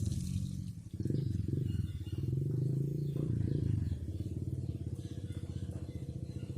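An engine running, its pitch rising and falling a little as the revs change.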